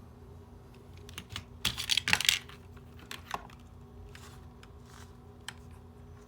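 Small metal tools and tiny watch parts clicking and tapping during a smartwatch repair: a quick flurry of clicks about two seconds in, then a few single ticks.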